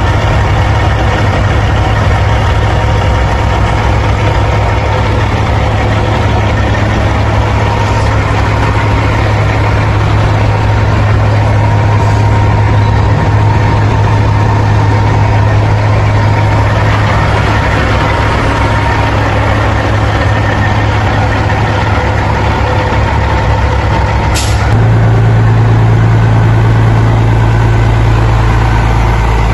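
Truck engine running steadily with a strong low drone under road noise. About 25 seconds in, a sharp click comes just before the drone steps to a new pitch and gets a little louder.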